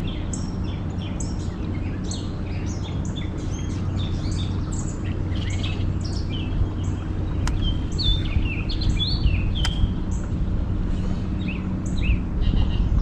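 Songbirds chirping and calling, many short overlapping notes, over a steady low hum. Two sharp clicks about midway through.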